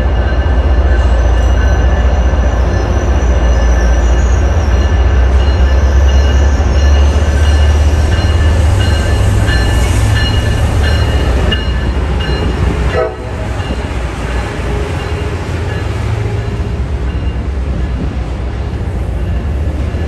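Passenger trains moving past on the station tracks: an MBTA commuter train, then an Amtrak Acela electric train. A steady, heavy low rumble carries faint steady whining tones above it, and the level drops sharply about two-thirds of the way through.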